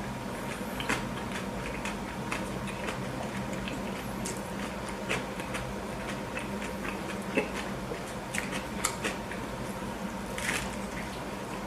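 Close-miked chewing of a burger: a steady stream of small, irregular wet mouth clicks and smacks, with a louder brief crackle about ten seconds in, over a faint steady hum.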